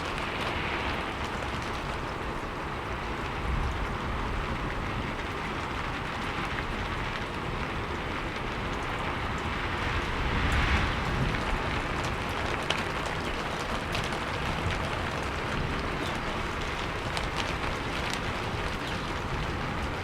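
Steady rainfall hissing, with scattered individual drops ticking and a brief swell of heavier rain about halfway through.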